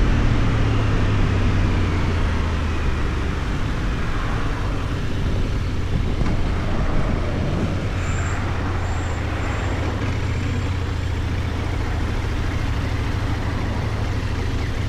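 Benelli Tornado 550's 554 cc parallel-twin engine running at a steady pace while the motorcycle is ridden, under a continuous rush of wind noise.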